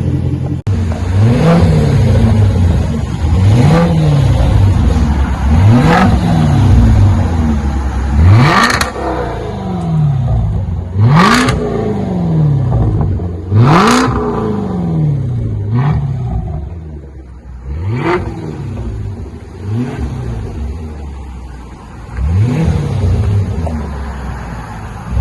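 2017 Range Rover's supercharged 5.0 V8 being revved about ten times through an exhaust with the rear mufflers deleted and an X pipe in place of the mid muffler, each rev rising and falling. The sharpest revs come near the middle.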